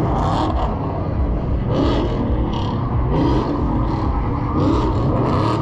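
Car engines running and being revved, with the pitch rising and falling, over a continuous rumble and short hissing bursts.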